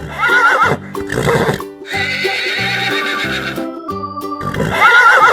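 Horse whinnying over light background music: a wavering call near the start, another near the end, and a longer, noisier neigh between them.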